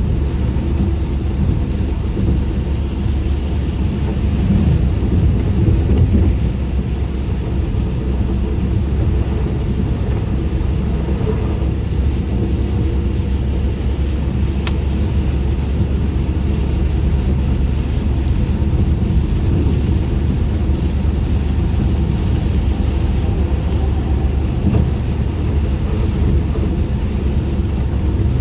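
Car driving on wet roads in the rain, heard from inside the cabin with the windows up: a steady low rumble of tyre and road noise. A single faint tick about halfway through.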